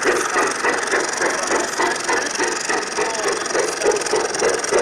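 Garden-scale model train running on the layout, with a steady rhythmic beat of about four to five pulses a second.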